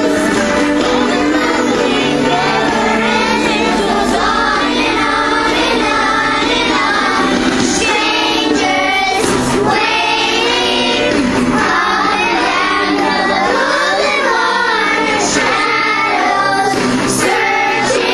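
Music with singing voices, sounding like children or a group singing together.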